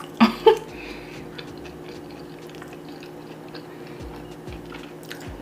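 Faint chewing and mouth sounds of eating, with scattered small clicks and two short louder sounds near the start.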